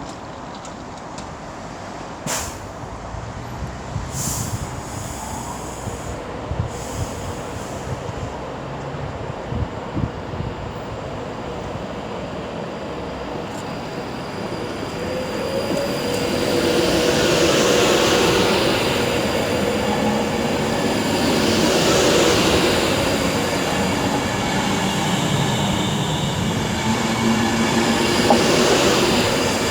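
A train running through the station, growing louder from about halfway, with a steady hum and three surges of high wheel squeal.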